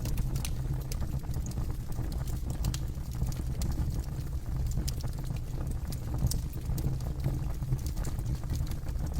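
Campfire burning with a steady low rumble and irregular sharp crackles and pops from the wood.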